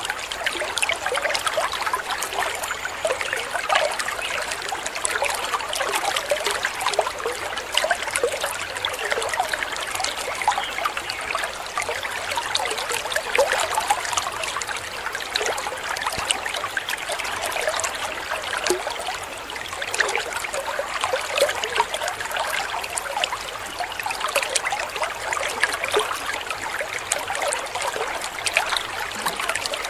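Small waterfall: water splashing and trickling steadily.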